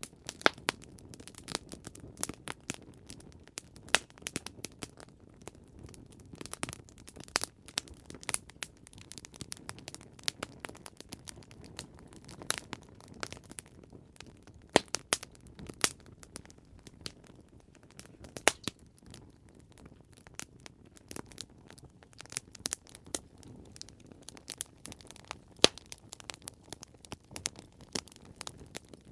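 Campfire crackling: irregular sharp pops and snaps of burning wood over a low steady hiss of the flames.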